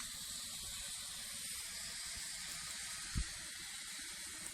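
Homemade potassium nitrate and sugar smoke flare burning with a steady hiss. A single brief low thump about three seconds in.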